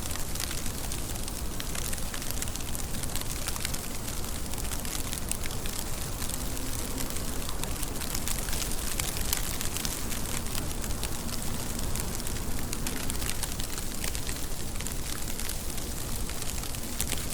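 Steady rain falling, with a dense stream of individual drops striking a surface as sharp little ticks over an even hiss.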